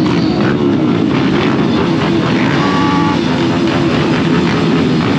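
Dirt bike engines running and revving, their pitch wavering up and down.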